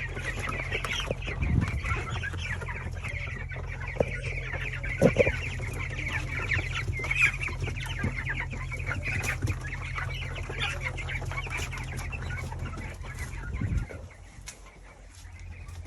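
A flock of young broiler chicks peeping and cheeping continuously, many short high chirps overlapping, over a steady low hum and a few knocks. The chirping and the hum drop away suddenly near the end.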